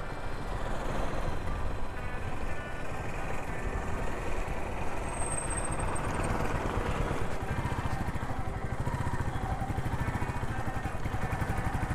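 Motorcycle engine running steadily, its rapid firing pulses even throughout.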